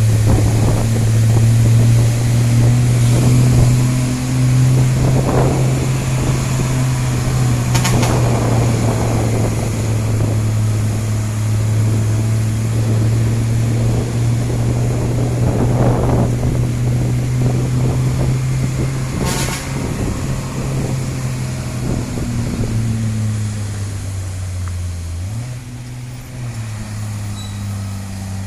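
Heavily loaded diesel truck engine running steadily at low revs as it labours up a steep climb; about three-quarters of the way through its note dips and then settles at a new pitch.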